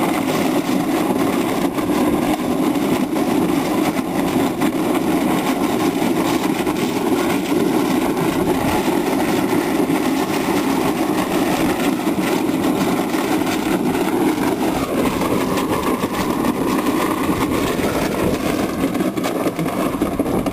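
A weighted steel panel, half coated in spray-on bedliner and half bare metal, scraping and grinding steadily along the pavement as a truck drags it, with the truck's engine running. The scraping stops abruptly near the end.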